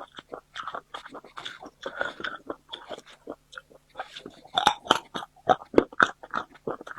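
Close-miked mukbang eating: a person chewing food with rapid, irregular wet mouth clicks and smacks, growing louder for a stretch about four to six seconds in.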